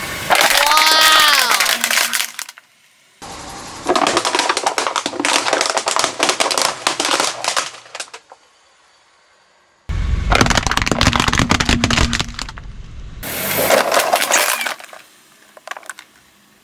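Objects crunching and cracking as a car's tyres roll over and crush them, in four short clips cut together, each a dense run of snapping and crackling. The first clip also has a few falling squeals.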